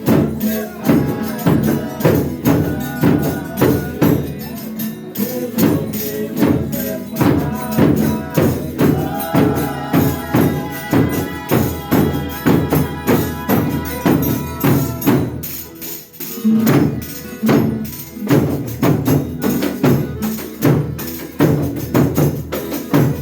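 A Folia de Reis group playing live Brazilian folk music: a viola and held melody notes over a steady tambourine beat. It breaks off briefly about two-thirds of the way through, then picks up again.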